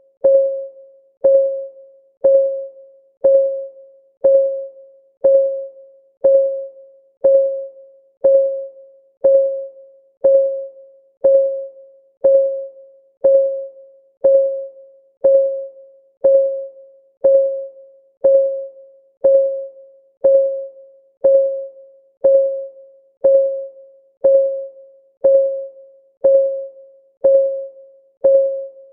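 Countdown timer's clock-ticking sound: one short, pitched tick per second, each ringing briefly at the same pitch before fading, in a steady, even rhythm.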